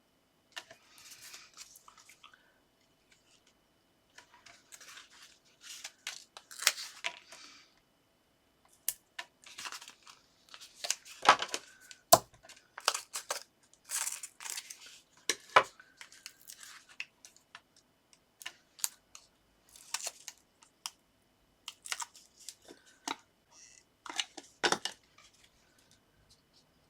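Paper and card being handled while card-making embellishments are stuck down: irregular rustling, crinkling and small taps in short clusters, with brief tearing sounds, loudest about eleven to sixteen seconds in.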